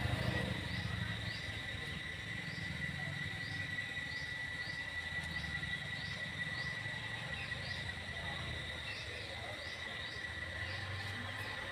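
Outdoor animal sounds: a steady high-pitched drone, like an insect's, under a short rising chirp that repeats about one and a half times a second, over a low rumble.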